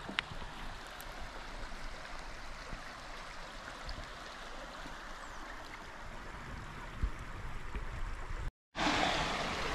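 Mountain river rushing steadily, with a few faint clicks. Near the end the sound drops out for a moment and comes back louder.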